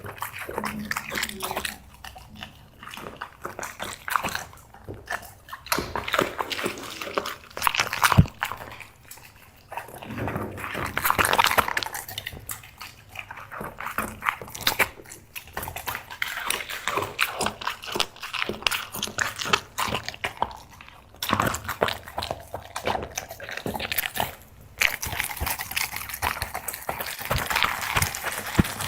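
Black Labrador chewing dried seafood treats: a steady run of irregular wet crunching and smacking, with one sharp knock about eight seconds in.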